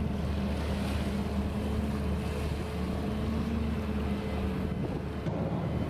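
Steady low hum of a vessel's engine, with a slowly wavering tone and a fixed higher one, over wind noise on the microphone.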